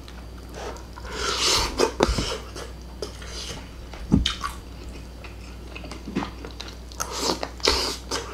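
Close-up chewing and wet mouth sounds of someone eating ground beef, with a few sharp clicks of a metal fork against a ceramic plate.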